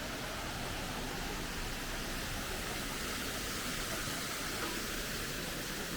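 Steady rushing hiss of water running in a glasshouse water feature, even and unbroken.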